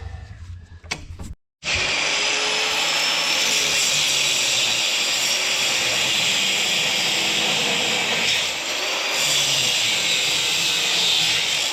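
A handheld power tool running continuously with a loud, steady whirring hiss, after a few low knocks and a brief gap about a second and a half in.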